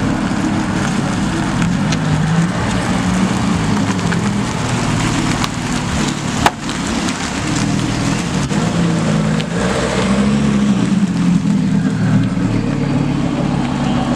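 Car engines running at a car meet, with a steady low engine note that shifts in pitch. There is one sharp click about six and a half seconds in.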